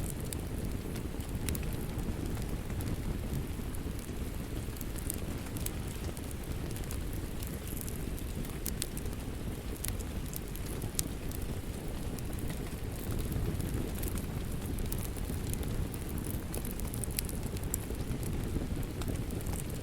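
Wood fire crackling in a fireplace: scattered sharp pops and snaps over a steady low rush of burning.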